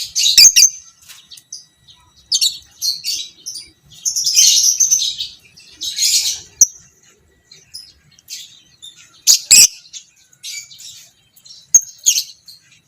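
Lovebird chattering in short high-pitched bouts, the longest just over a second about four seconds in. Two sharp knocks stand out, one near the start and one about nine and a half seconds in.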